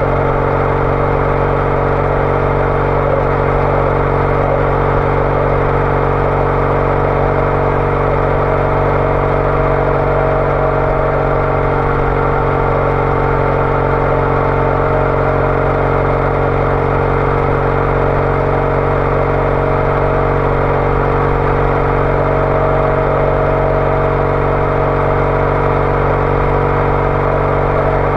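Triumph Bonneville T214's air-cooled parallel-twin engine through an aftermarket TOGA exhaust, running at a steady cruise with its pitch holding nearly constant.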